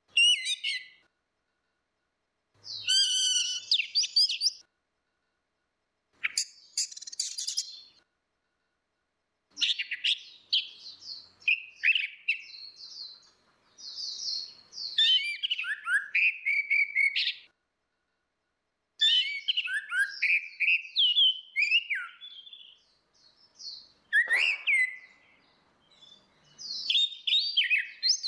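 Orange-headed thrushes singing: varied phrases of quick whistles, trills and chirps, coming in bursts of one to a few seconds with short pauses between them.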